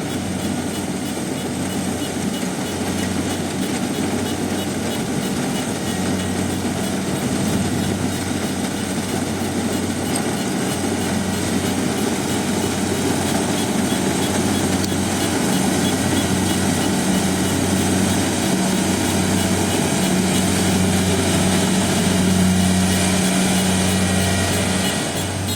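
Kubota DC70 rice combine harvester running steadily, a continuous engine hum that grows slightly louder near the end.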